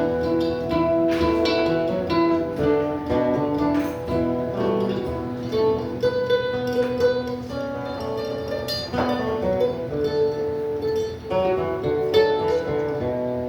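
Acoustic guitar playing an instrumental passage of quick picked notes and strums.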